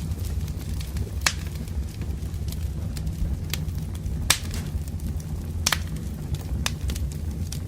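Burning firewood crackling, with sharp single pops every second or so over a steady low rumble; the loudest pop comes about four seconds in.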